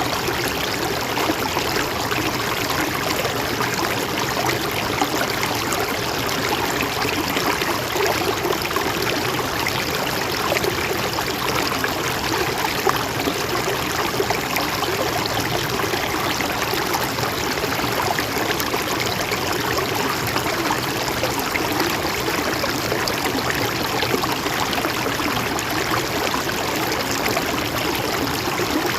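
Mountain stream running steadily over rocks, a continuous rushing and trickling of water.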